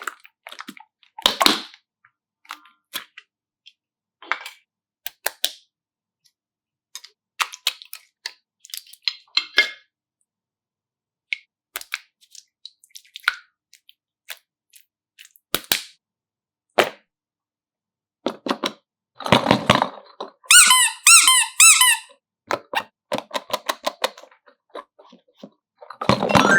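Scattered sharp clicks and taps of objects being handled, with a cluster of louder knocks and then a wavering squeak about twenty seconds in.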